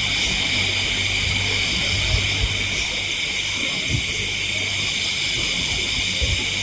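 Steady high-pitched chorus of night insects in the jungle, with a few soft low thumps.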